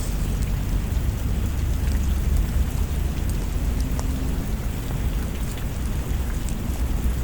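Steady rain with a deep continuous rumble underneath and scattered small sharp clicks.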